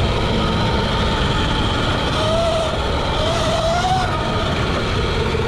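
A modified 80 V, 29 kW Sur-Ron electric dirt bike riding off-road: the electric motor and chain drive whine, rising and falling in pitch with speed, over a loud, steady rumbling noise.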